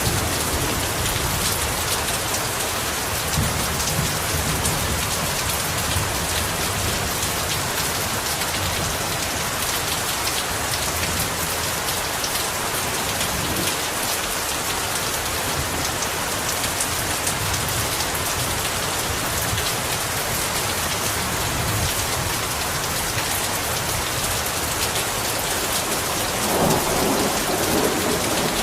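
Heavy rain pouring steadily, with thunder rumbling low underneath; a louder roll of thunder builds near the end.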